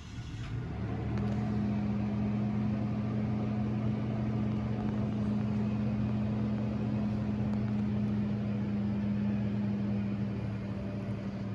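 A small motor humming steadily after spinning up over the first second. The pitch holds even, and the higher part of the hum fades near the end.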